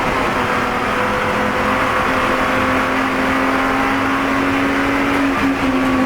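Spec E46 BMW race car's 3.0-litre straight-six running hard under load. Its note climbs slowly in pitch, then dips briefly about five seconds in.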